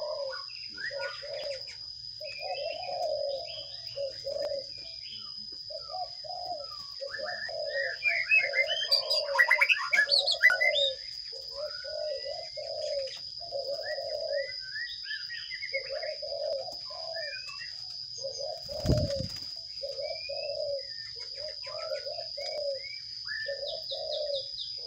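Birds chirping over a steady run of short, low, repeated cooing calls, with a louder flurry of chirping about eight to eleven seconds in and a single thump near the end.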